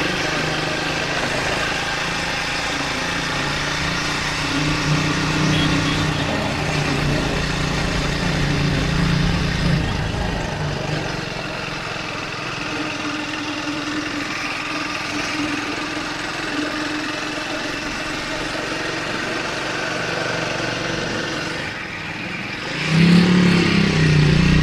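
Triumph Speed 400's single-cylinder engine running while riding, with wind noise over the microphone. The engine note shifts through the stretch and gets louder near the end.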